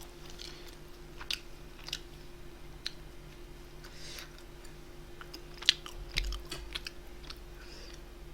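Quiet, intermittent chewing of food, with soft crunches and mouth clicks at irregular moments over a faint steady hum.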